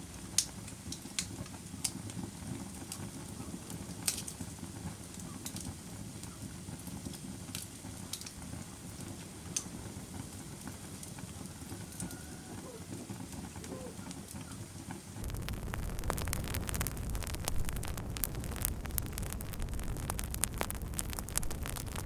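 Wood fire crackling: scattered sharp pops over a low hiss. About fifteen seconds in it turns suddenly louder and denser, with rapid crackling over a low rumble.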